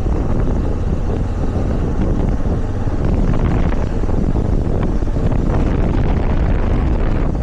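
Motorcycle riding at road speed, its engine running under steady wind rush across the microphone.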